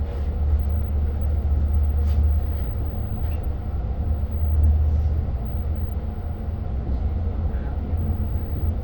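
Steady low rumble inside a Long Island Rail Road passenger coach as the train runs, with a few faint ticks and rattles.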